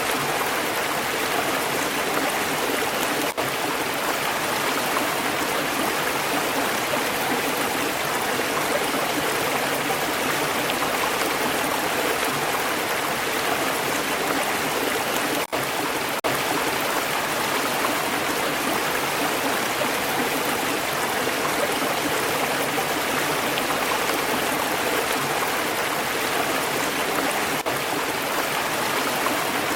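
A stream flowing in a steady, even rush of water. It drops out for an instant twice, about three seconds in and near the middle.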